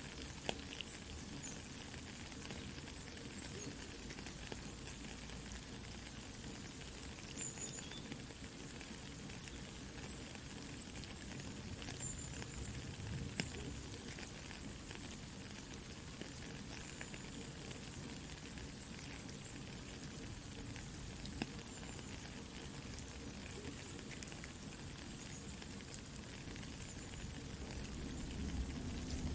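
Soft, steady rain mixed with a crackling campfire, with small pops and clicks scattered through the steady hiss.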